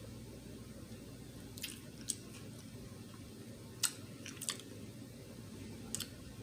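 Close-miked chewing, with a few short wet mouth clicks spaced a second or two apart.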